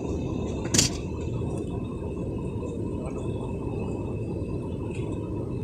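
Steady low rumble of a Scania multi-axle coach on the move, heard from inside the passenger cabin, with one brief sharp click about a second in.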